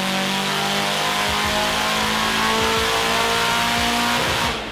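Turbocharged Nissan SR20 four-cylinder engine running hard under load on a chassis dyno, its revs held high and nearly steady. The sound cuts off suddenly just before the end.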